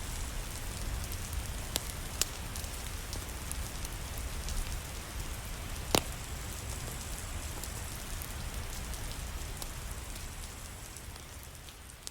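Steady rain, with a few sharp pops; the loudest comes about six seconds in. The sound begins to fade out near the end.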